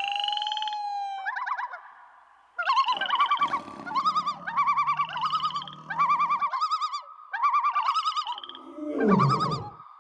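Animal calls: a run of short warbling trills repeated about once a second over a steady high tone, with a louder sweeping call near the end.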